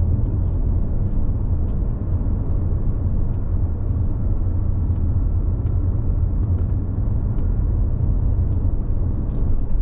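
Steady low road rumble of a car driving, heard from inside the cabin, with faint small ticks and rattles now and then.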